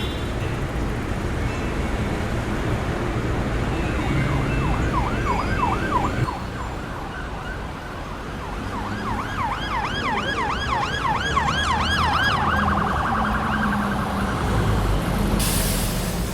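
Emergency vehicle siren in yelp mode, a fast rising-and-falling wail about four times a second, over a steady traffic rumble. It drops away partway through, comes back louder, and briefly switches to a faster warble.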